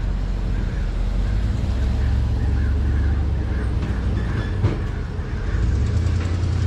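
Engine of a 2019 Suzuki GSX-R750, a 750 cc inline-four, running steadily at low revs, its note shifting about a second and a half in and again near the end. A single sharp click about four and a half seconds in.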